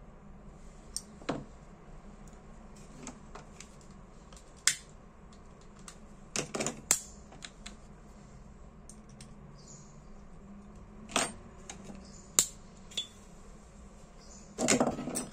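Sharp metallic clicks and taps from an S.T. Dupont Ligne 2 lighter being worked and handled while it is tested after a gas-leak repair. The clicks come irregularly, about a dozen in all, with small clusters about six seconds in and near the end.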